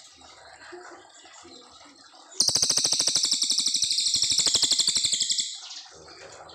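Cililin coklat songbird calling: a loud, fast, high-pitched rattling trill of about three seconds, starting about two seconds in, over faint background sound.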